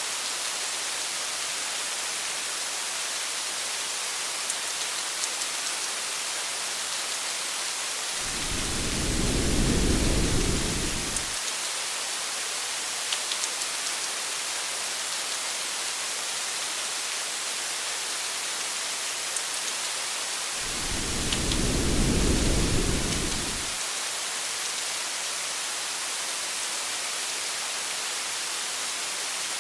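Steady rain hiss with a few faint drop ticks, and two low rumbles of thunder: one about eight seconds in and another about twenty-one seconds in, each swelling and fading over about three seconds.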